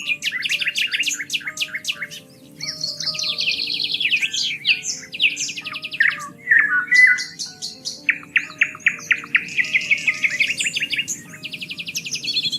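Songbirds singing: fast repeated chirps and trills from several birds, overlapping. A faint, soft music bed of held notes lies underneath.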